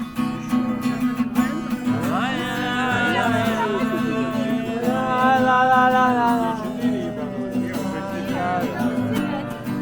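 Acoustic guitar strummed steadily while a voice sings along, holding long drawn-out notes without clear words through the middle.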